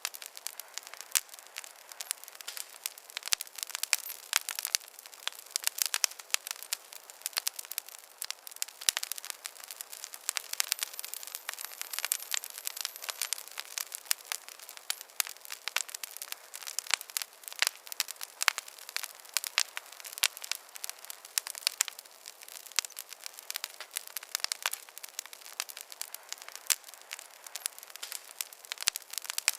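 Wood campfire crackling: a dense, irregular run of sharp snaps and pops, several a second, over a soft hiss, with no low rumble.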